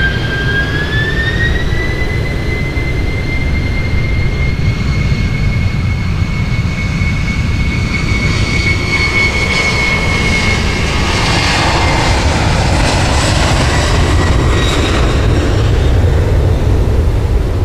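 Jet airliner's engines: a high whine rises in pitch over the first two seconds and then holds steady over a deep, continuous rumble. The whine fades out about twelve seconds in while the rumble carries on.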